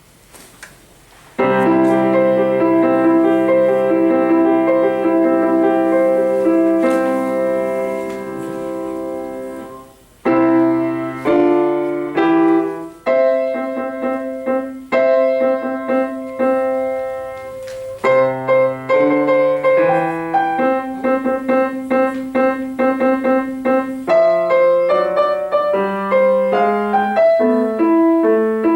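Piano playing, starting about a second in with a long chord struck repeatedly, then moving through a series of shorter chords and repeated notes.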